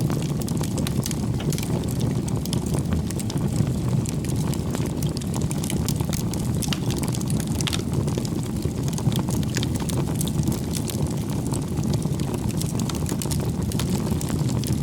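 Wood bonfire burning: a steady low rumble of flame with frequent small crackles and pops from the burning firewood.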